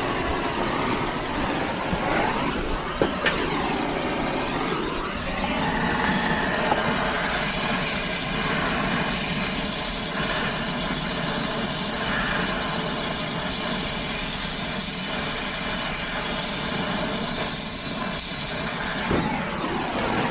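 Brazing torch flame burning steadily while working copper refrigerant line joints on a heat pump, a loud, even rushing that stops abruptly at the end.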